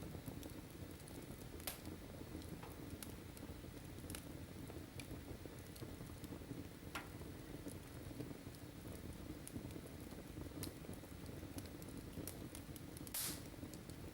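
Wood fire in a fireplace crackling: a steady low rumble of flames with scattered sharp pops, one louder pop near the end.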